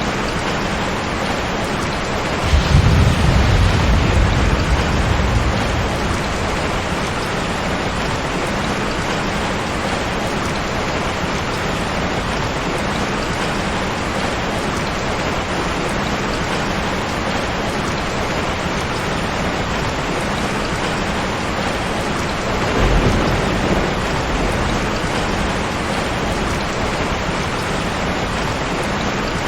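Steady heavy rain, with two low rolls of thunder: a longer one a few seconds in and a shorter one about two-thirds of the way through.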